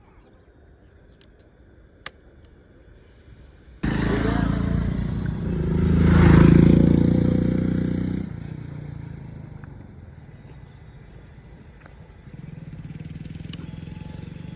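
Royal Enfield Hunter 350's single-cylinder engine and exhaust: the sound comes in suddenly about four seconds in, swells to one rev and falls back, then settles into a steady low idle near the end.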